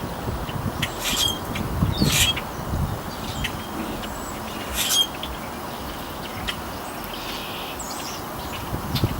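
Birds chirping and calling over a steady outdoor hiss, with a few sharp clicks in the first five seconds.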